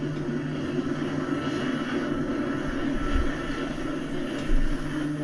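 Aircraft engine running with a steady droning hum, with two short low thumps in the second half.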